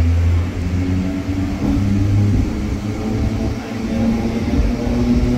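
Electric suburban (EMU) train running, heard from inside the coach as it pulls away from a station: a steady low rumble with a hum from the motors.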